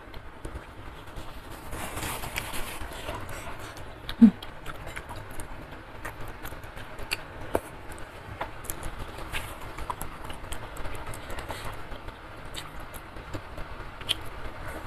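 Close-miked chewing of spicy curry instant noodles with beef skin and meatballs: wet mouth clicks and smacks scattered throughout, with a short hummed 'mm' about four seconds in.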